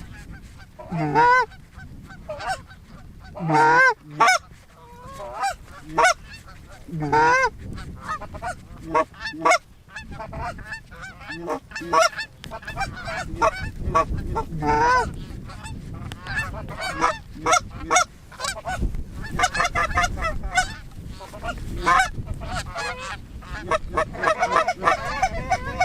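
Canada geese honking: loud single honks every few seconds, building into a dense, continuous chorus of honks over the second half as a flock comes in.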